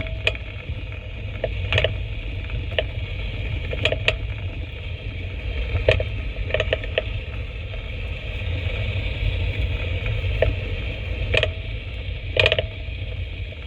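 Mercedes E-Class W212 driving over a rough road, a steady low rumble broken by about ten sharp, irregular rattling knocks from the front suspension. The knocks come from play in a worn tension strut ball joint.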